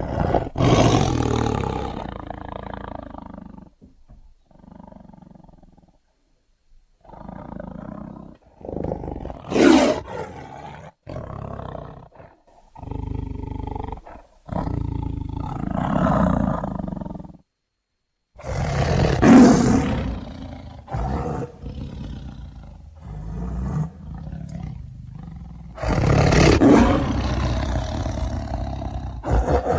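A sequence of Bengal tiger roars and growls used as film sound effects, one call after another with short pauses between them. There are big roars at the start and at about ten, nineteen and twenty-seven seconds in, with lower, quieter growls in between.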